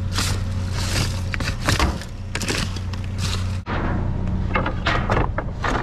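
Rummaging through trash: rustling and short knocks and thuds of objects being handled, over a steady low hum. The sound breaks off abruptly a little past halfway and picks up again.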